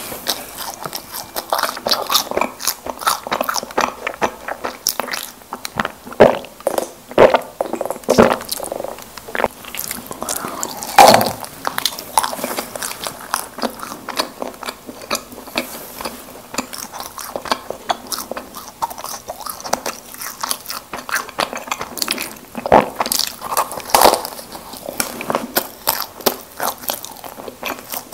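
Close-miked eating sounds of someone biting and chewing Krispy Kreme doughnuts, a steady run of short mouth clicks and smacks with a few louder bites scattered through.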